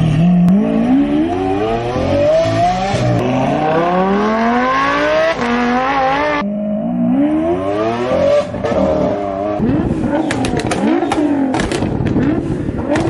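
High-revving supercar engines accelerating hard, the exhaust note climbing in pitch again and again as the car shifts up through the gears, with a cut to a second car about six and a half seconds in. Near the end come quick rev blips and a run of sharp exhaust pops and crackles.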